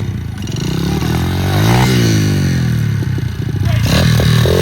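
Pit bike engine revving as it is ridden: the pitch climbs to a peak about two seconds in, then drops back and runs lower.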